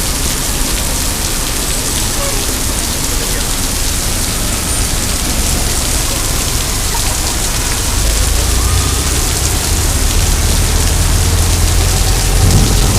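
Heavy rain pouring steadily, with a low rumble building up in the last few seconds.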